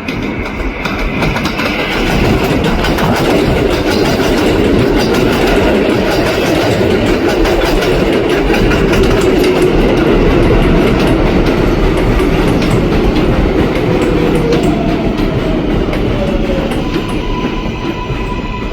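7 train of R188 subway cars running through an elevated station, its wheels clattering over the rail joints of the steel structure. The sound builds to its loudest midway and then fades as the train moves off, with a faint falling whine near the end.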